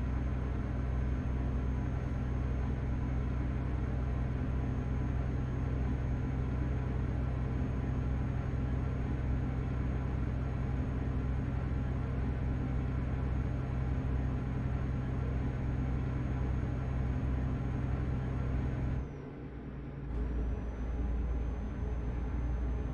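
Truck engine running steadily under way, heard inside the cab as a low drone. Near the end it drops away for about a second, then picks up again.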